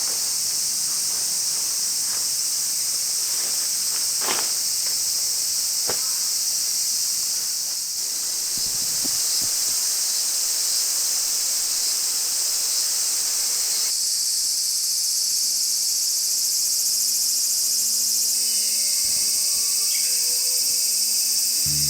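Dense, steady, high-pitched summer insect chorus in woodland, with a couple of sharp clicks in the first half. The chorus changes in texture about two-thirds of the way through.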